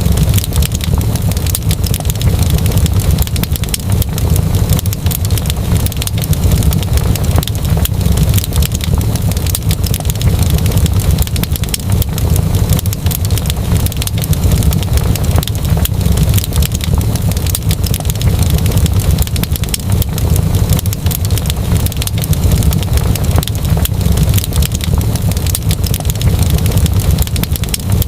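Wood fire in a fireplace crackling, with many sharp pops and snaps over a steady low rumble.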